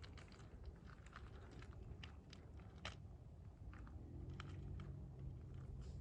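Faint, irregular crunching clicks of footsteps on gravel and loose rock, with a low steady hum underneath that grows louder from about halfway.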